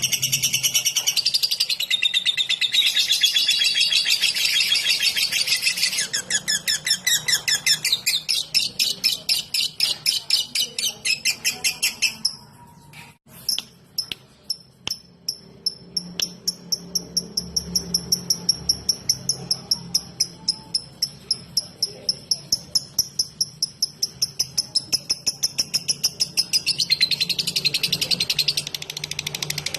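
Lovebird singing its rapid 'ngetik' chatter, a fast rattling run of high chirps. About twelve seconds in it breaks off briefly, then gives a long string of evenly spaced sharp chirps, and the fast chatter returns near the end.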